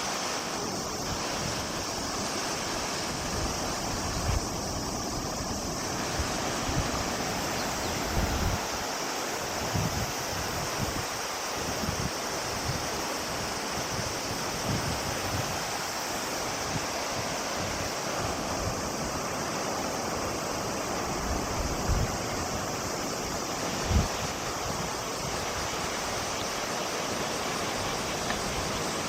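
Steady rushing of a large river, with occasional low thumps of wind buffeting the microphone.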